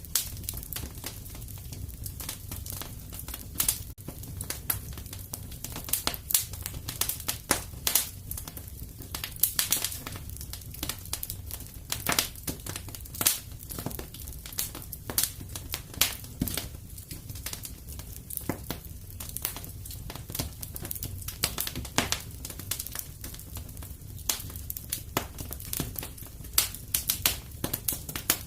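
Wood fire crackling in a fireplace: irregular sharp pops and snaps, often several a second, over a steady low rumble.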